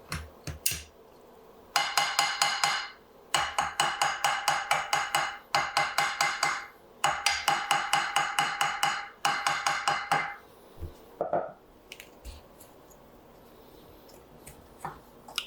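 Hand-tool work on a rifle stock: five runs of rapid metallic strokes, about five a second, each run lasting one to two seconds, with a ringing metal tone, then a few scattered knocks near the end.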